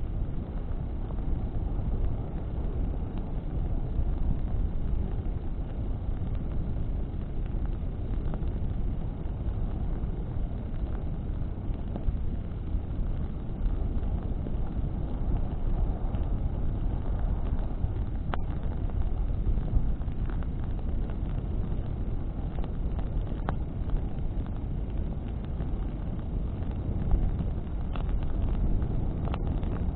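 Bonfire burning in the wind: a steady low rumble of wind and flame, with a few sharp crackles from the burning wood in the second half.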